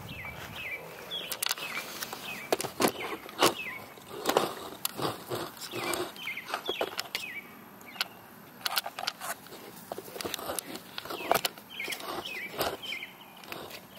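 Small birds chirping in repeated short high calls, each dropping in pitch, among scattered clicks and knocks.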